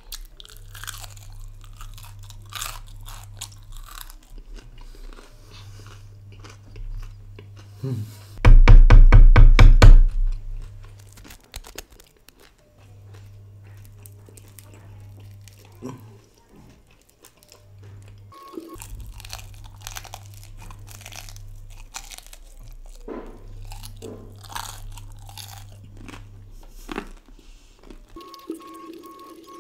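Close-miked chewing and crunching of deep-fried mutton crunchy momos, their fried shell very crunchy and slow to chew. About eight seconds in, a loud, low, pulsing sound cuts in for about a second and a half.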